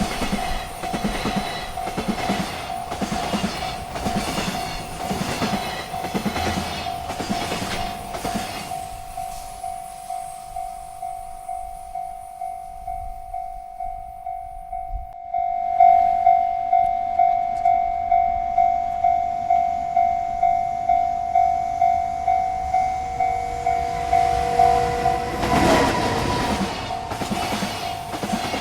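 Railroad crossing bell ringing about twice a second while freight cars clatter over the rails. The train noise fades after about eight seconds, leaving the bell, which grows louder about halfway through. A short rush of train noise comes near the end.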